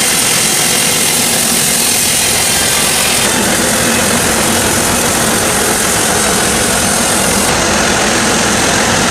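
Sawmill machinery running steadily: a loud, even mechanical din with a low hum underneath. The sound shifts abruptly about three seconds in and again near the end.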